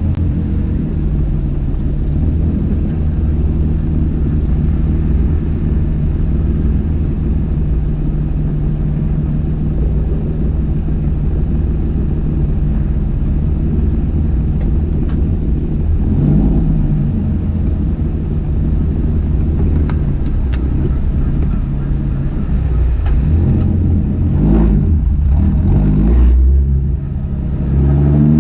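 Nissan 350Z's 3.5-litre V6 running through a MotorDyne exhaust, mostly holding a steady engine speed. The pitch shifts briefly about sixteen seconds in, wavers and dips over a few seconds near the end, then climbs as the car accelerates.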